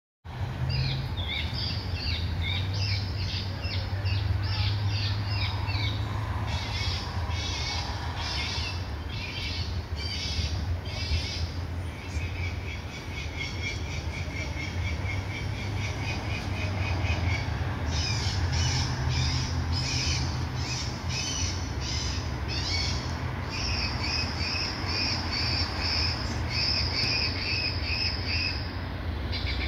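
Birds chirping and calling over and over, the calls quickening into a fast repeated chatter in the second half, over a steady low rumble.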